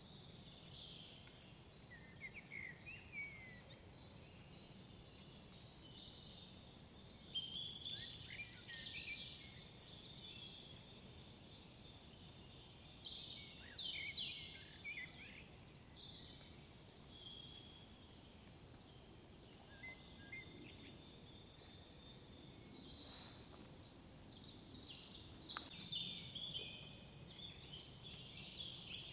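Several songbirds singing. One repeats a short, very high trilled phrase about every seven or eight seconds, while others call and warble lower, over a faint steady background hush.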